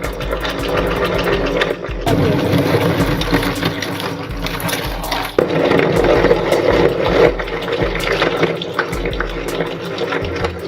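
Electric meat grinder running steadily with a wet, sloshing sound of soft material being fed through it, over background music.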